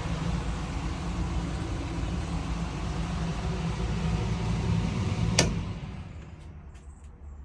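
Food truck engine idling steadily, then a sharp click about five seconds in and the engine winds down and stops, leaving only a few faint small clicks.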